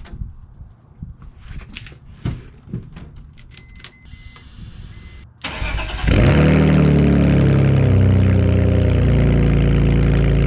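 Scattered clicks and knocks with a few faint high beeps, then about five and a half seconds in the BMW E46's engine cranks briefly and catches on a cold start, settling into a loud, steady idle.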